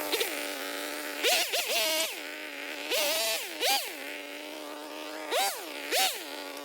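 46cc two-stroke petrol chainsaw idling, its engine revved up briefly several times and dropping back to idle each time.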